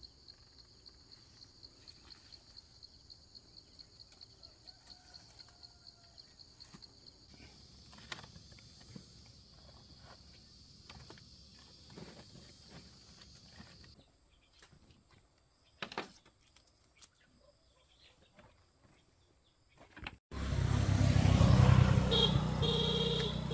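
Insects chirping in a steady high pulse, about four pulses a second, with a second higher-pitched insect joining partway. After a quieter spell of scattered clicks and knocks, a much louder low rumble starts suddenly near the end.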